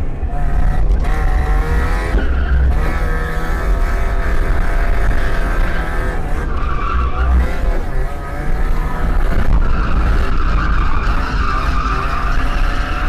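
Mazda MX5 1.6's four-cylinder engine revving up and down while the tyres squeal and skid through a drift. The tyre squeal swells about six and a half seconds in and again from about ten seconds in to the end.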